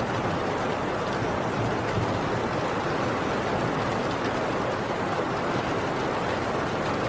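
Heavy rain falling steadily on a tin roof, an even, unbroken downpour.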